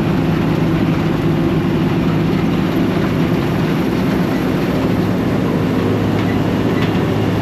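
Old combine harvester's engine running steadily at a constant speed, with a continuous low hum under a haze of machine noise.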